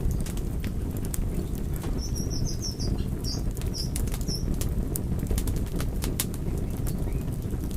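Fire crackling: sharp pops and snaps over a steady low rumble, with a short run of high chirps from about two to four and a half seconds in.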